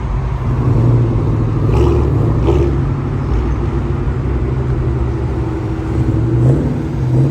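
Car engine idling close by in stopped traffic: a steady, loud low rumble with little change in pitch.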